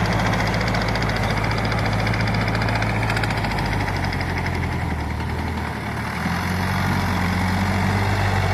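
Sonalika DI 50 RX tractor's diesel engine running steadily. Its speed sags a little past the middle and picks back up about six seconds in.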